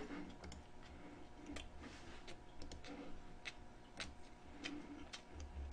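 Faint chewing close to the microphone: soft low thuds every half second to a second, with scattered small clicks and ticks.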